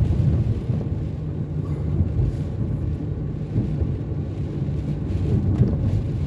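Steady low rumble of a car driving on a wet road in the rain, with engine hum and tyre noise heard from inside the cabin.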